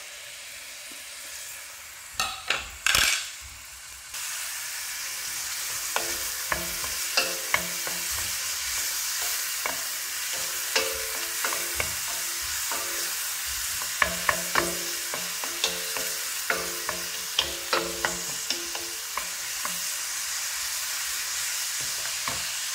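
Chopped onions frying in oil in a pan: a steady sizzle that sets in about four seconds in, with a spoon clicking and scraping against the pan as they are stirred. A few louder knocks of utensils come before the sizzle starts.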